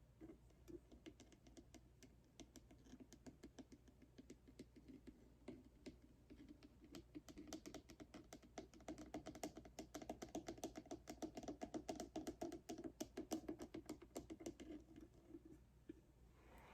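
Rapid light tapping on a cardboard box, a quick patter of many taps with a hollow ring that grows faster and louder in the middle and stops about two seconds before the end.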